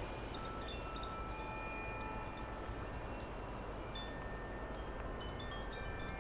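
Wind chimes ringing, several notes at different pitches sounding and overlapping, over a steady low outdoor rumble.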